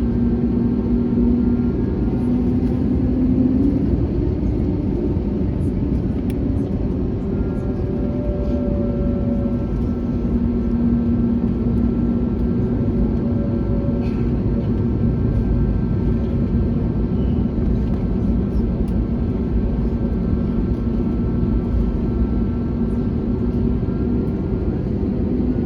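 Airbus A321neo's Pratt & Whitney PW1100G geared turbofan engines running steadily: an even, loud hum with a few faint steady tones.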